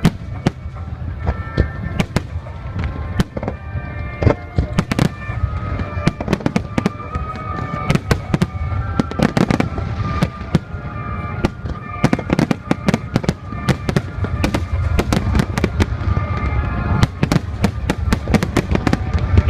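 Aerial fireworks going off in a dense, irregular string of sharp bangs, with music playing underneath.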